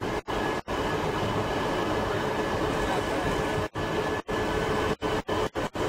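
Tobu 5700 series electric train running at a steady speed, heard from inside the passenger car: a steady rumble with faint constant tones. The sound cuts out for a split second several times, mostly in the second half.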